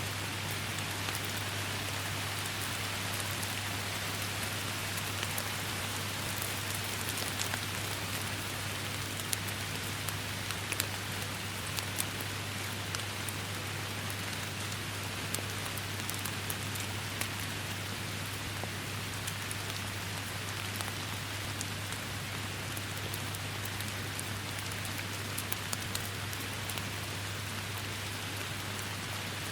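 Steady heavy rain: a dense, even hiss dotted with many sharp individual drop strikes, over a steady low hum.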